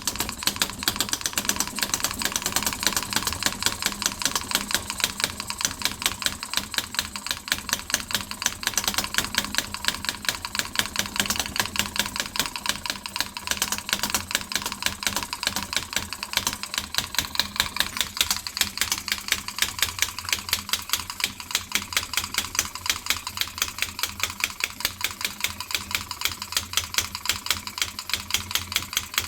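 Homemade gas-fuelled Lenoir engine running, with a rapid, even clicking beat of its firing strokes and moving parts that holds steady throughout.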